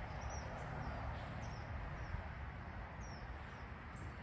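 A small bird chirping over and over, short high notes that drop slightly in pitch, coming every half second to a second, over a steady low rumble and hiss.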